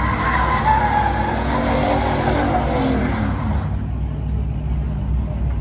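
A car revving hard, a loud noisy wail whose pitch falls and then cuts off about three and a half seconds in, leaving a steady low engine rumble.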